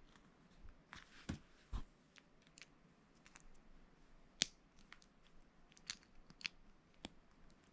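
Lego bricks being handled and snapped together: scattered small clicks and taps, with two duller knocks a little after a second in and a sharp click just past the middle.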